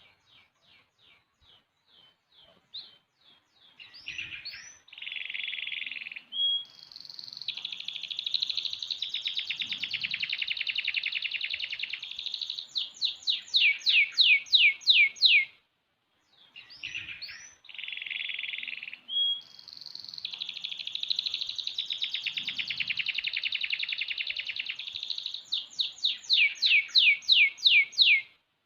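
Six-month-old domestic canary singing two long song bouts with a short break about halfway. Each bout starts with soft, spaced chips, builds into long, fast rolling trills, and ends with a run of loud, rapid down-sweeping notes.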